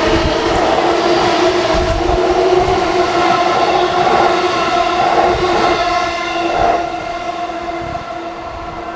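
E233-1000 series electric train pulling out of the station, its motors giving a steady multi-tone whine over wheel and rail rumble; the sound drops somewhat about seven seconds in.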